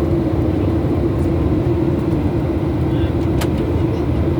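Steady drone of a Boeing airliner's engines and rushing air heard inside the passenger cabin, with a constant hum running through it. A single sharp click comes about three seconds in.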